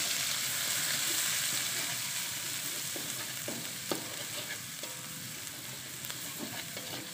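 Galangal slices and Indonesian bay leaves sizzling steadily in hot oil in a wok as they are sautéed, with a metal spatula scraping and knocking against the pan while stirring. The sharpest knock comes about four seconds in.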